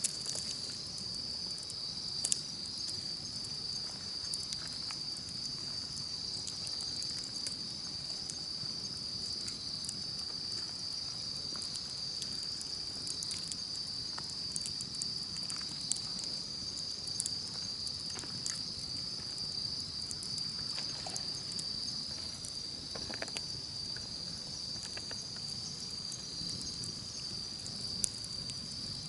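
Steady high-pitched insect chorus trilling without a break, with the scattered crackles and pops of a wood campfire, a few sharper pops standing out.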